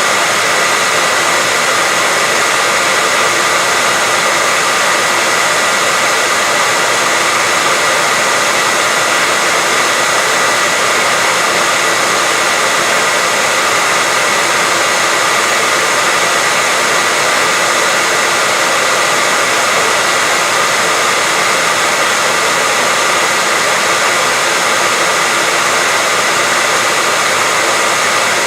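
Continuous white noise: a steady, unchanging hiss, bright and thin in the low end, with a faint high whistle held within it.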